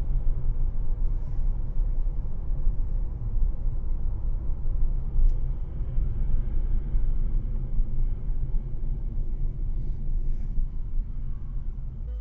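Steady low rumble of a moving car: engine and road noise, with no clear impact.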